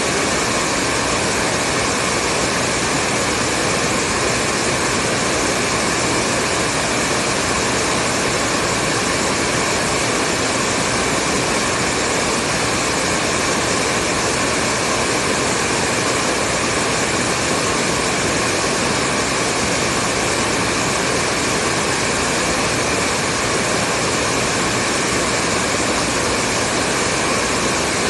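Hair dryer running steadily: an even rush of blown air with a few faint steady tones from its fan motor, holding the same pitch and level throughout.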